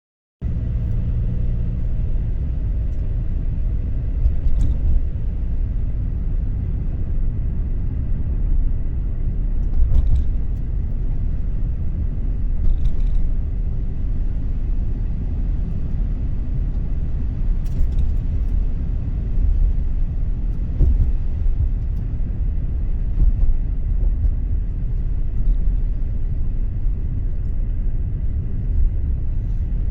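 A car driving: a steady low rumble of road and engine noise, with a few faint clicks and knocks now and then.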